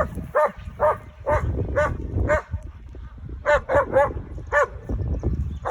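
Dog barking repeatedly, about two barks a second, then a short pause about two and a half seconds in before a quicker run of five barks.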